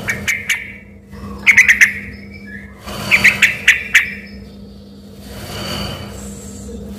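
Yellow-vented bulbul (trucukan) singing in full voice: three quick bursts of rapid, sharp notes in the first four seconds. After that comes a softer hiss, with a low steady hum underneath.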